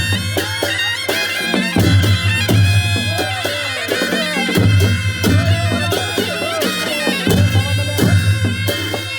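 Nepali panche baja band playing: sahanai reed pipes wail a wavering melody over a steady drone, with drums and cymbals struck in a quick rhythm.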